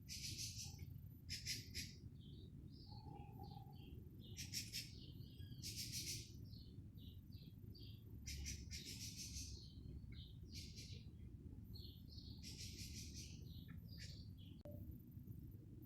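Birds singing, a run of short high chirps and trills repeating every second or so, over a low steady rumble.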